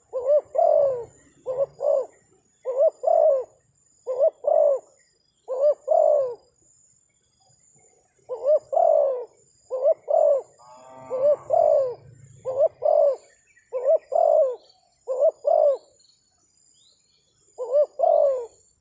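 Spotted dove (terkukur) cooing over and over: about a dozen short two-note coo phrases with brief pauses between them, and one longer, drawn-out phrase about eleven seconds in.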